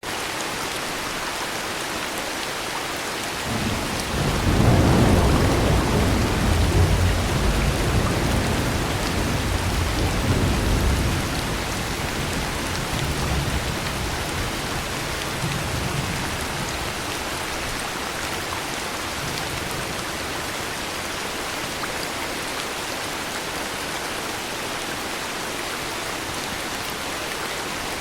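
Heavy rain falling steadily, with a long roll of thunder that builds about four seconds in and dies away by about eleven seconds, followed by a fainter rumble a few seconds later.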